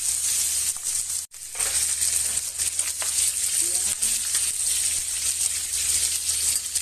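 Pork pieces sizzling as they fry in hot oil in a wok, a steady hiss. It drops out for an instant about a second in.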